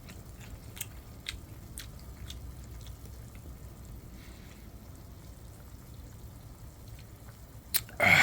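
A person quietly chewing food, with small faint clicks from the mouth or utensils over a low steady background hum. A short, loud sound comes at the very end.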